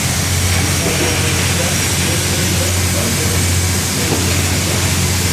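Steady machinery noise in the steamboat Natchez's engine room: a constant low hum under an even hiss, with faint voices in the background.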